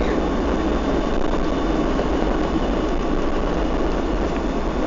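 Steady rumble of a Boeing 757-200 airliner heard from inside the passenger cabin: engine and airflow noise as it lands.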